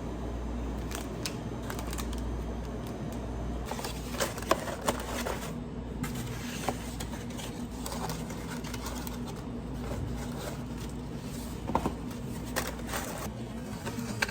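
Scattered small clicks and knocks of hands handling objects at a work counter, over a steady low machine hum.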